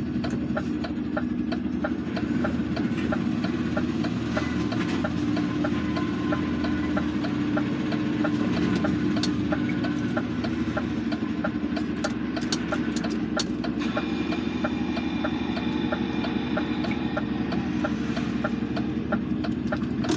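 Lorry's diesel engine running steadily, with a regular light ticking about three times a second.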